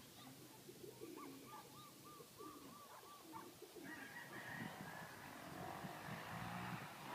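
Racing pigeons cooing softly, with a quick run of short, repeated chirps from another bird about a second in. A soft rushing noise comes in at about four seconds.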